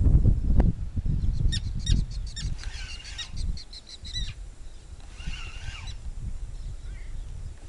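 Birds calling by the river: a repeated pitched call comes twice, about three and five seconds in, with quick rapid chirps between the calls. A low rumble fills the first second or so.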